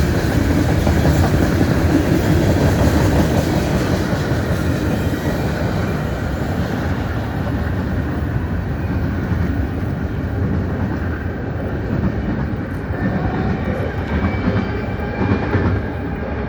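Freight cars of a Canadian National train rolling past, a steady rumble of steel wheels on the rails that eases in its higher part after about six seconds.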